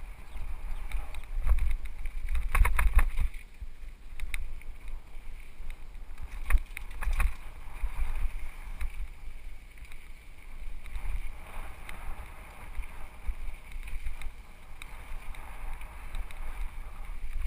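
Mountain bike rattling and knocking over rocks, with wind rumbling on the helmet-mounted camera. A cluster of sharp clacks comes about three seconds in, and single clacks come around six and seven seconds in.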